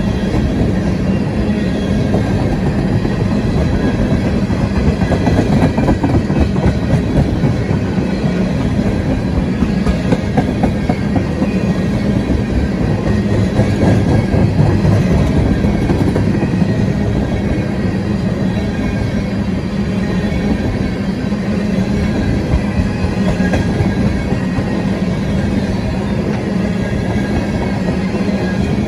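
A freight train of tank cars rolls steadily past close by, its steel wheels rumbling and clacking over the rails.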